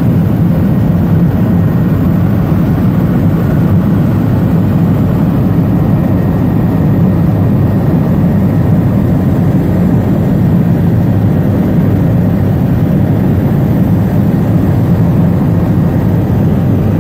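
Helicopter engine and rotor noise heard from inside the cabin in flight: a loud, steady drone that does not change.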